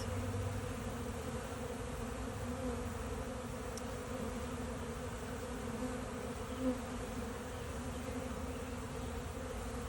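Steady hum of many honeybees at an open hive.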